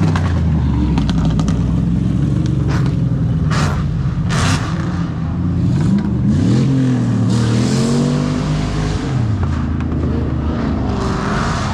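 Car engines running close by on the street, with a steady low rumble. In the middle an engine's pitch rises and falls as it revs, and a few short sharp clicks are heard in the first half.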